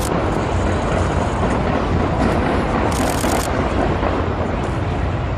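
A fireworks display going off without pause: many rapid bursts merge into a dense, steady rumble, with a brief burst of crackling about three seconds in.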